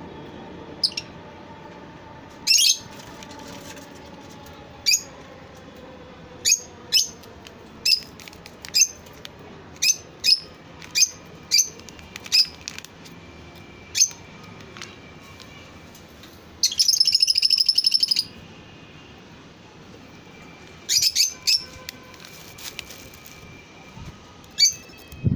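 Lovebirds calling with short, sharp chirps, one every second or so, and one rapid chattering burst of about a second and a half about two-thirds of the way through.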